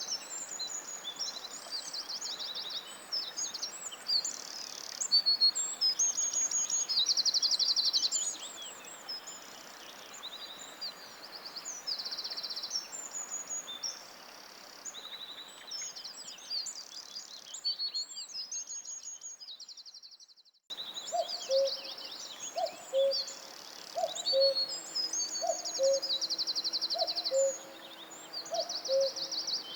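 A chorus of songbirds singing in woodland: high trills and whistling phrases over a steady hiss. About two-thirds of the way through, the sound fades out to a moment of silence and resumes as a new recording. There, under the songbirds, a lower two-note call repeats about once a second.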